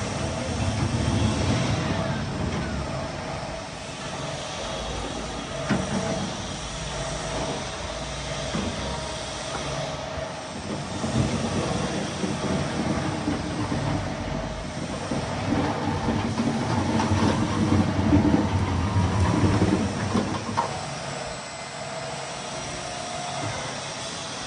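Electric pallet truck running and rolling: a steady mechanical rumble with a faint constant whine, a few sharp clunks, and a stretch that grows louder past the middle.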